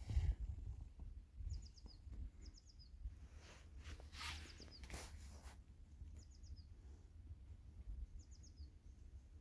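A small bird chirping a short phrase of three or four quick high notes, the last one dropping, repeated every second or two. There is a low rumble throughout, and a brief rustling noise about four to five seconds in.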